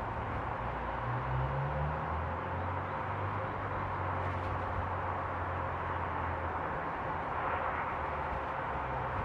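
Low, steady engine hum from a vehicle running at low revs, its pitch shifting a little, over an even background hiss.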